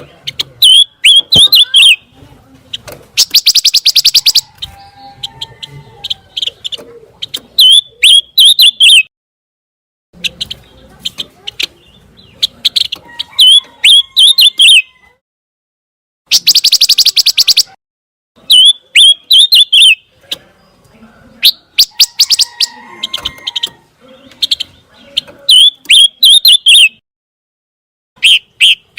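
Pancawarna songbird singing: loud repeated phrases of quick, high chirping notes broken up by dense, very fast trills, with short pauses between phrases.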